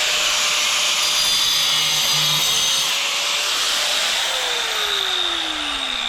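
Angle grinder with a diamond blade cutting through a porcelain tile with a steady, loud grinding whine. About four seconds in, the cut is finished and the motor is let off, so its whine falls steadily in pitch as the blade spins down.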